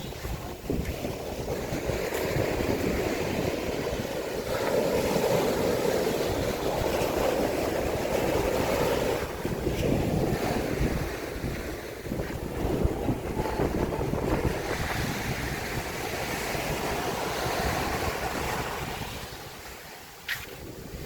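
Waves washing onto a sandy Mediterranean beach, a steady surging rush of surf, with wind buffeting the microphone. The rush eases briefly near the end.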